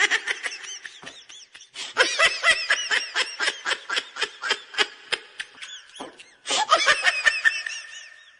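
High-pitched laughing in a quick run of short giggles, breaking off briefly about six seconds in and then starting again.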